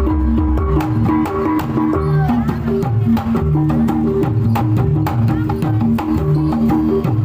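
Music for Javanese troupe dancing: drums and sharp clicking percussion over a repeating pattern of short pitched notes, in a steady pulse.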